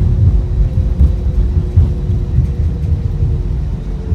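Airbus A319 cabin on the ground just after landing: a loud, uneven low rumble from the wheels and airframe rolling along, with a steady engine hum underneath. The rumble eases slightly near the end as the aircraft slows.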